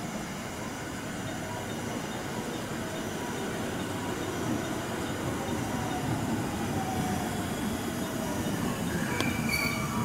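JR West 223-series electric train pulling into the station, its wheels and running gear rumbling on the rails and growing gradually louder as it approaches. Faint squealing tones come in toward the end.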